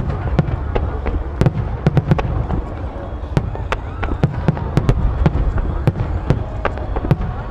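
Fireworks display: aerial shells bursting in quick succession, sharp bangs several times a second over a steady low rumble.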